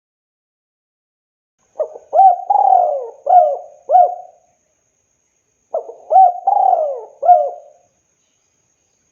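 Spotted dove cooing: two phrases of several coos each, the first starting about two seconds in and the second about six seconds in.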